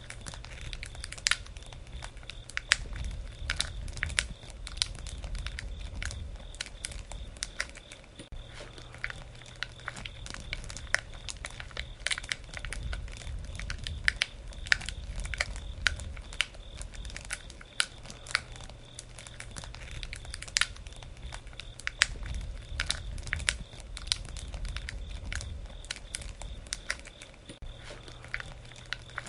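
Wood fire crackling: a steady stream of sharp pops and snaps over a low rumble of burning that swells and eases every few seconds.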